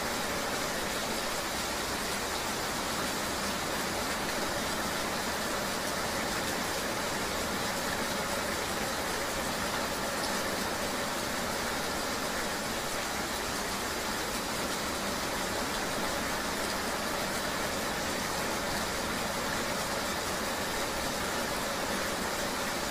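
Steady, unbroken rain ambience with a vehicle engine running underneath it, like riding through rain.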